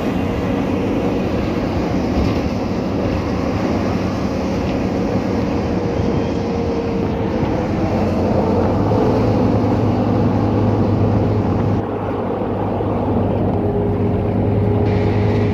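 Cabin ride noise of a Scania K310UA articulated city bus under way: the engine runs steadily over road and body rattle noise. Its note grows stronger about eight seconds in, and there is a brief dip near twelve seconds.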